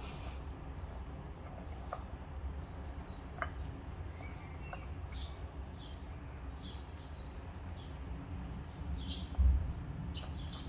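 Small birds chirping on and off over a steady low rumble, with a few faint clicks and one dull thump near the end.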